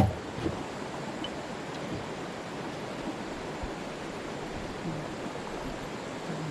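A sharp knock at the very start, a smaller knock about half a second later, then a steady rushing hiss.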